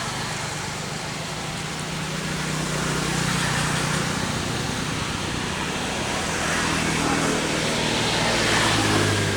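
Motor vehicle traffic noise: a steady engine hum under a noisy rush, swelling about three seconds in and again near the end.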